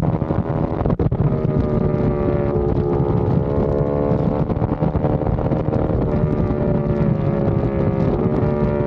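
Aprilia RS660 Factory's parallel-twin engine running through a non-resonated Mivv XM-1 Evo exhaust under way, with a deep, bassy tone and wind noise on the microphone. There is a brief break in the note about a second in, after which it holds fairly steady with slight rises and falls.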